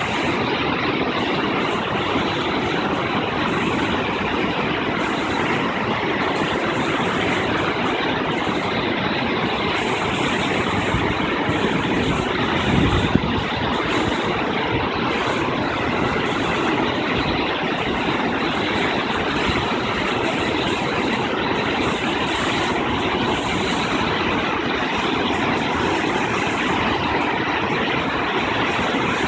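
Appomattox River rapids rushing steadily, the river high with snow melt. About thirteen seconds in, a brief low rumble swells up and drops away.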